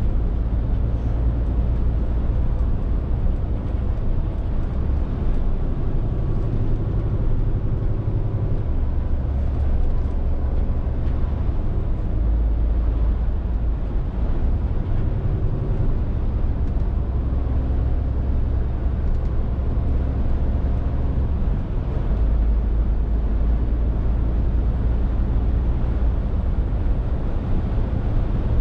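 Scania R450 lorry's six-cylinder diesel engine running on the move, with road and tyre noise. Its low drone steps up and down in pitch several times as the engine speed changes.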